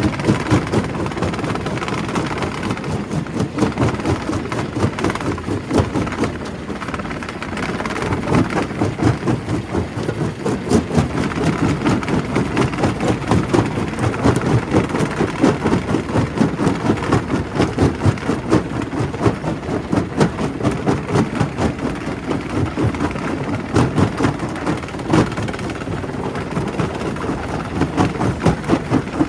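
Primary rock crusher at a quarry breaking stone: a continuous heavy mechanical din with many irregular knocks and cracks of rock being broken.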